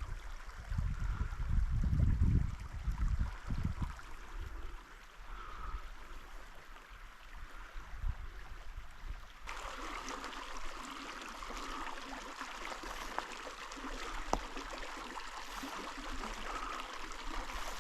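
Alpine creek water running over rocks, with low gusty rumbling in the first few seconds. About halfway through, the rushing water abruptly becomes louder and fuller.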